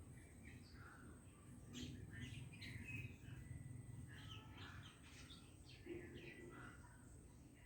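Faint bird chirping: many short calls in quick succession, busiest about two and four seconds in.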